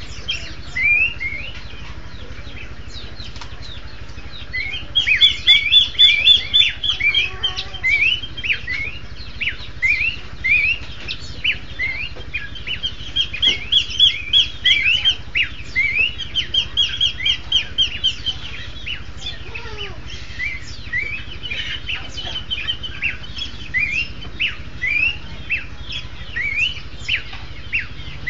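A pair of pelanduk semak (Horsfield's babblers) singing in duet: fast runs of short, sharp, high notes, several a second, with louder stretches in the middle.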